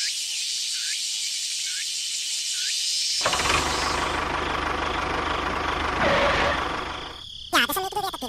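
A small engine running steadily with a low, even knock. It starts abruptly about three seconds in and fades out near the end. Before it, a repeating chirp sounds about once a second over a high hiss.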